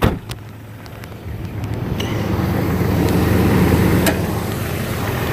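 Jeep 4.0-litre straight-six engine idling steadily, growing louder from about two seconds in, with a sharp click at the very start.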